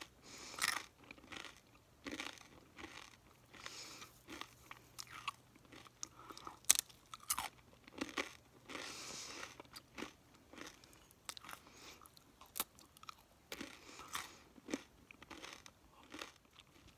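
Close-miked chewing and biting of crunchy food: irregular crunches and wet mouth sounds, one after another.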